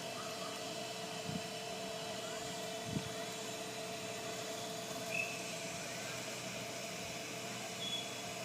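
Vacuum cleaner motor running steadily on a lawn, a constant whine with a couple of faint knocks.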